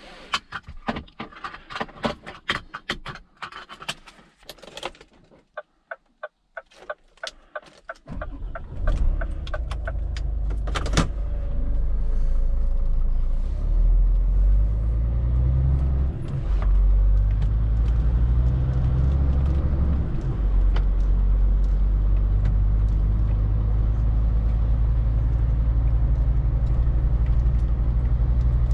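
A quick run of clicks and rattles, then a quieter spell with a few single clicks. About eight seconds in, the Scania R450 lorry's 13-litre six-cylinder diesel starts and settles into a steady low drone.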